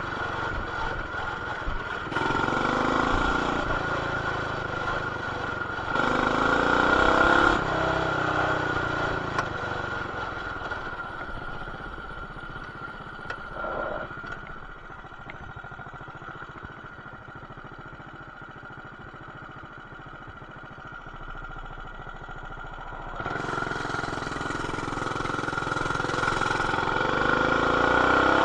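BT200X mini bike's single-cylinder four-stroke engine with an aftermarket header and exhaust, revving up several times in the first few seconds. It then drops to a low, quieter run for about ten seconds and revs back up near the end. It is heard muffled through a camera's plastic case.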